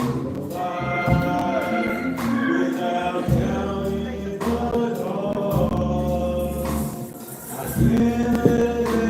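Gospel chorus singing a song with instrumental accompaniment and percussion strikes.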